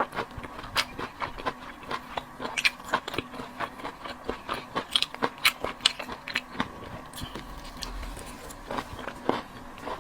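Close-up eating sounds of a person chewing and biting into seafood: quick, irregular wet clicks and crunches several times a second, easing off briefly near the end, over a faint steady hum.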